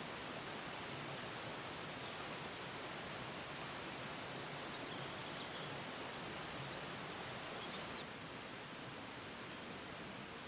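Steady rushing outdoor noise, with a few faint high bird chirps about halfway through. The level drops slightly about eight seconds in.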